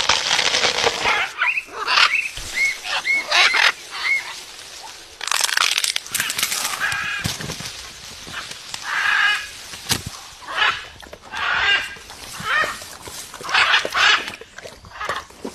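Parrot calling in short, harsh squawks repeated every second or so, with a few small rising chirps among them.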